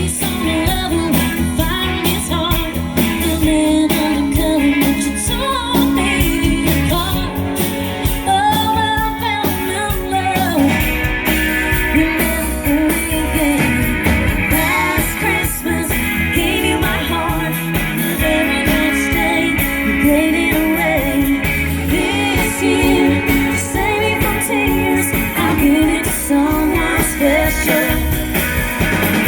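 A live band playing a song, with a lead singer and guitar, amplified over a sound system.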